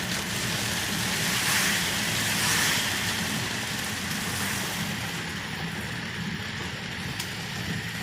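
Car cabin sound while driving through heavy rain: the engine's steady low hum under the hiss of rain and tyres on the wet road. The hiss swells about one to three seconds in and eases off after about five seconds.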